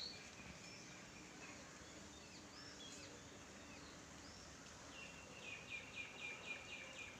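Faint outdoor ambience with scattered bird chirps; about five seconds in, a bird gives a quick run of repeated chirps, about five a second, for about two seconds.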